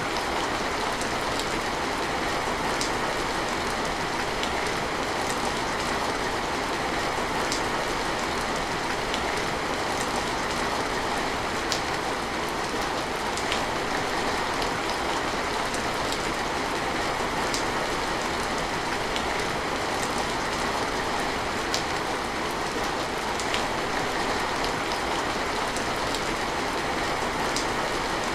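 Steady rain falling, a dense even hiss with scattered sharper drips ticking through it.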